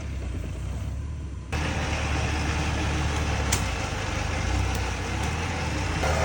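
Off-road 4x4 engine running with a steady low drone. About a second and a half in it becomes louder and rougher, and there is a sharp click midway.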